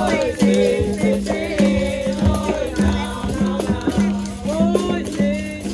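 Capoeira roda music: a berimbau sounding a steady, repeating rhythmic note with the caxixi shaker rattling, under voices singing.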